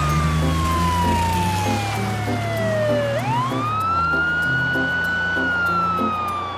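A wailing siren sound, falling slowly in pitch for about three seconds, then swooping quickly back up and holding before it starts to fall again, over background music.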